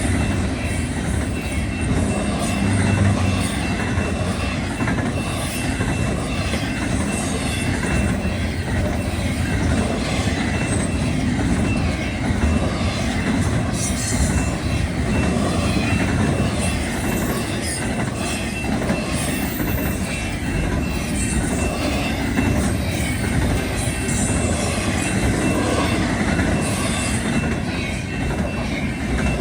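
BNSF container freight train rolling past, a steady rumble with wheels clicking over the rail joints and a thin, steady high wheel squeal running through it.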